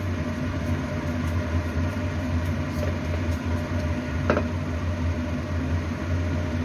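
Steady low mechanical hum, with one short clink about four seconds in.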